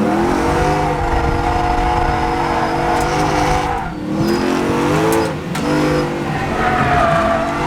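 Toyota 1UZ 4-litre V8 revving hard under throttle, its pitch climbing and holding high. It eases off about four seconds in and again a second and a half later, pulling back up after each lift.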